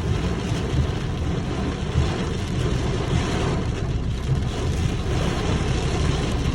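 Heavy rainstorm: a steady hiss of downpour with strong, irregular low rumble of wind buffeting the microphone.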